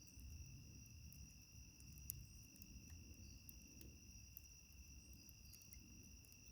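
Faint, steady trilling of night insects at two high pitches, with scattered small pops and crackles from a wood fire; the sharpest pop comes about two seconds in.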